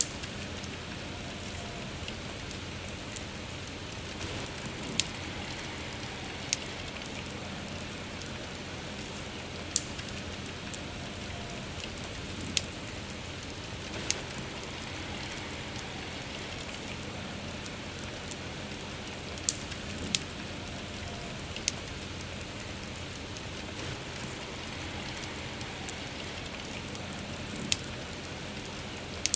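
Steady rain hissing, with a wood fire crackling over it in sharp, irregular pops about every one to two seconds.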